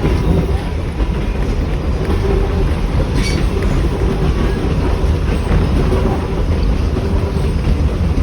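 Passenger carriage of the Mary Valley Rattler heritage train running along the track, a steady low rumble of wheels and carriage, with one sharp click about three seconds in.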